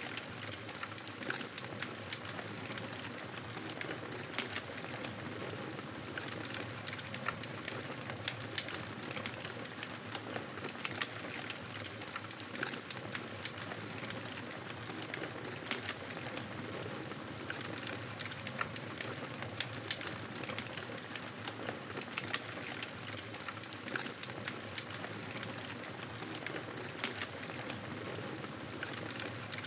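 Fireplace fire crackling, with frequent sharp irregular pops over a steady soft hiss.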